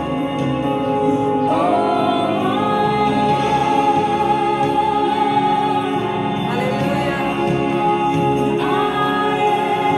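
Worship music: singing with vibrato over sustained chords, a voice rising into a new phrase about one and a half, six and a half and nine seconds in.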